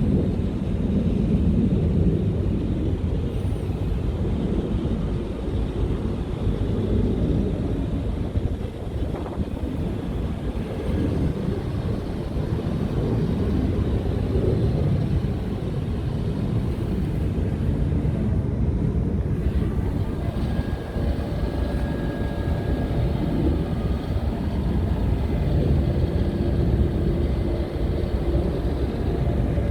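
Scania R tractor unit's diesel engine running steadily, a continuous low rumble, with a faint steady whine joining in over the second half.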